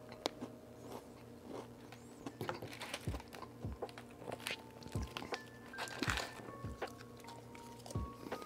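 Crunchy chewing and breaking of dry MRE crackers, over background lo-fi music whose soft low beat comes in about three seconds in.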